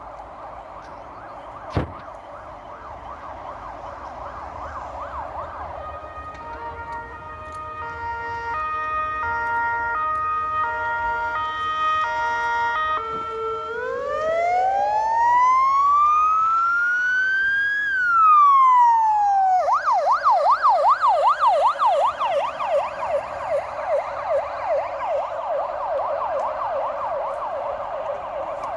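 Electronic siren cycling through its modes: a fast warbling yelp, then a stepped two-tone pattern, then one long wail rising and falling, then the fast yelp again for the rest. A sharp click sounds about two seconds in.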